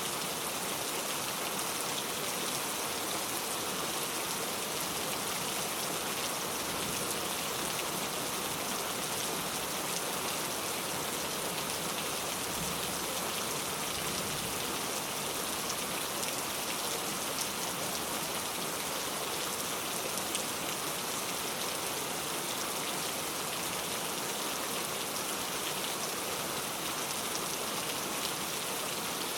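Steady rain falling, a dense even patter of drops with fine ticks of individual raindrops.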